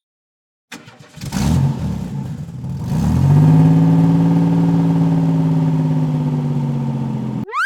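A car engine starting after a moment of silence, catching unevenly and then running at a steady hum. A short rising whoosh near the end.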